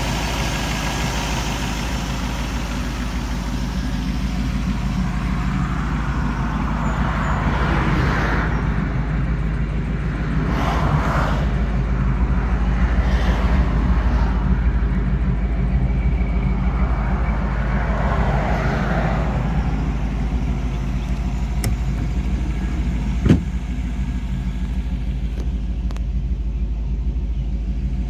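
Small-block Chevrolet V8 idling steadily in a 1929 Ford Shay roadster replica. There are a few brief swells of noise over it, and one sharp knock late on.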